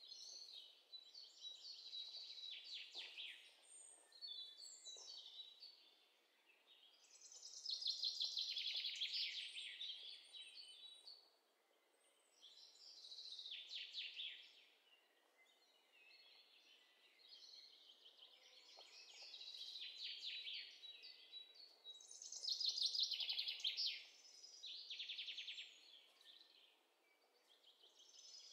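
Birds singing: repeated high, fast trilling phrases, each a second or two long, with short pauses between.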